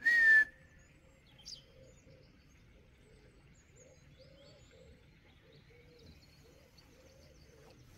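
A short, loud sharp noise right at the start, then birds calling faintly in the background.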